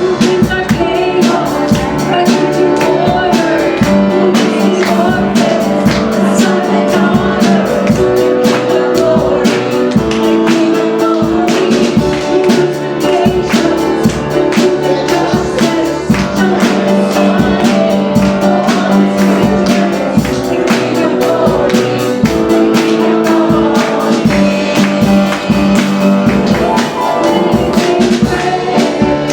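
Church worship band playing a gospel praise song with singing, drum kit and tambourine keeping a steady beat.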